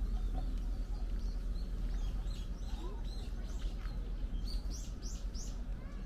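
Small birds chirping: a run of short, high notes, with three louder chirps in quick succession near the end, over a steady low rumble.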